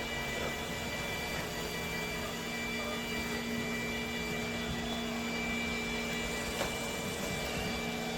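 iRobot Roomba Combo j7+ robot vacuum running: a steady whirring hiss with a high, constant motor whine and a low hum, and a faint click about six and a half seconds in.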